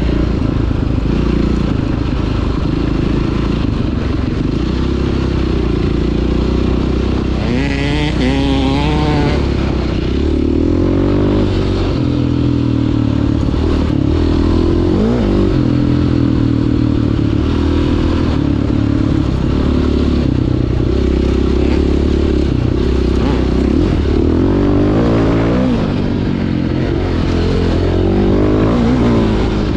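2009 KTM 530 EXC single-cylinder four-stroke dirt bike engine running under way, its revs rising and falling again and again with the throttle, with some clattering over the trail.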